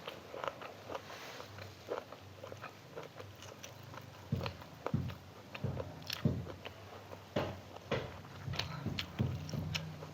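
A person chewing and biting close to the microphone, with many short, irregular crunches, while eating a meal of chicken liver and gizzard with stir-fried water spinach.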